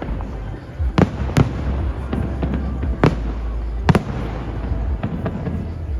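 Aerial fireworks shells bursting: about four sharp bangs and several fainter pops spread across the few seconds, over a steady low rumble.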